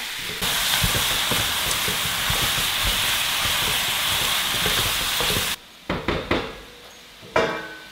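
Chicken pieces and bones sizzling as they are sautéed in a pan, stirred with a utensil. The sizzle cuts off suddenly after about five and a half seconds, followed by a few separate knocks.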